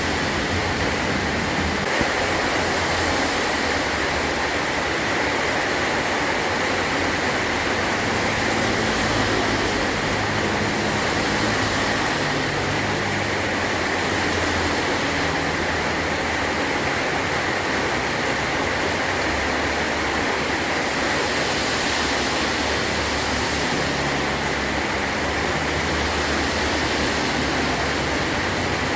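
Heavy rain falling steadily on a metal roof, a dense, even hiss with a low rumble underneath.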